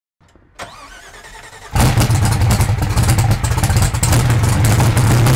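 A car engine starting: a quieter lead-in, then about a second and a half in it fires and runs loud and steady with a deep rumble and crackle.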